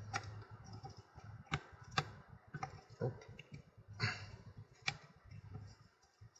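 Irregular sharp clicks and light knocks of small plastic and metal parts being handled, as the plastic gear of a Toyota MMT gear shift actuator is turned and set into position.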